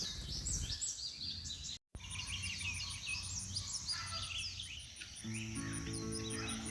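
Wild birds chirping and calling, with a high, even pulsing about five times a second after a brief dropout near two seconds in. Background music with sustained notes comes in about five seconds in.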